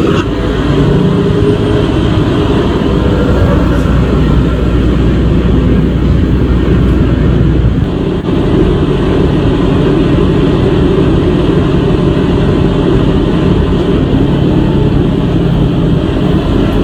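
Steady drone of a truck's engine and road noise while driving, its low pitch changing about eight seconds in.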